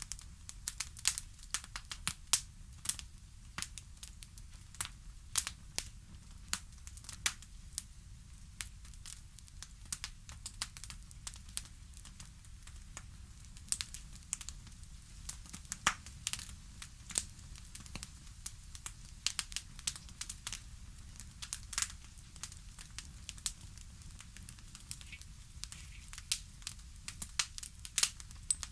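Fireplace crackling: irregular sharp pops and snaps of burning wood, several a second, over a low steady rumble of the fire.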